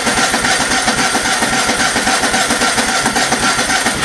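A Cub Cadet's small engine being cranked by its electric starter, with fast, even turning-over pulses, without catching. This is a hard cold start in deep sub-zero cold, with the choke partly off.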